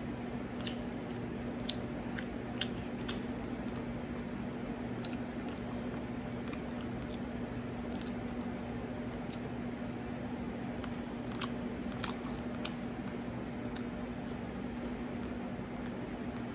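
A person chewing fried chicken, with irregular wet smacking and clicking mouth sounds over a steady low hum.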